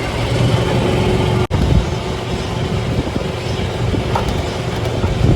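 Golf cart driving along: a steady motor hum with road and wind noise, cutting out for an instant about a second and a half in.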